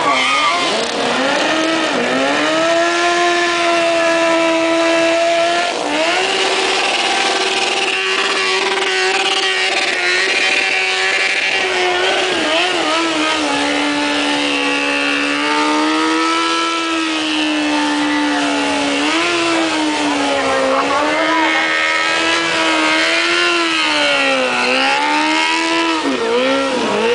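Two motorcycles doing a burnout at the same time, engines held at high revs with spinning rear tyres. The engine pitch holds for long stretches, then dips and climbs again several times.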